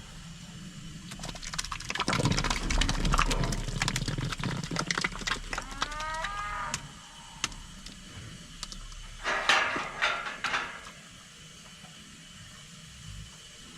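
Cattle being worked in a metal handling setup: clattering and knocking as a cow shifts, and a short moo about halfway through.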